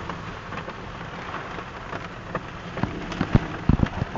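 Heavy rain beating on a car's roof and windshield, heard from inside the car: a steady wash of rain, with sharp knocks of heavy drops hitting the body that come more often and louder in the second half.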